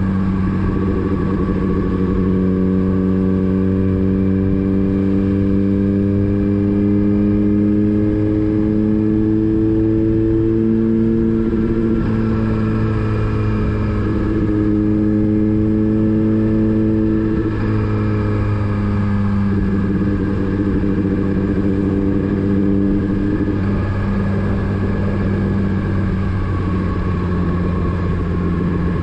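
Motorcycle engine running steadily while the bike is ridden, its pitch drifting slowly up and down with small changes in speed.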